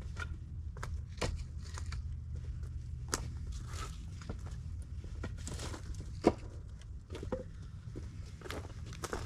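Footsteps on ground strewn with dead leaves and brush, irregular steps about one or two a second, with one sharper knock about six seconds in.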